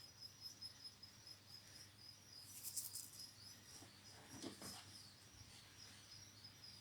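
Faint morning outdoor ambience: a steady, high-pitched, rapidly pulsing chirring runs throughout, with a few short high chirps about halfway through.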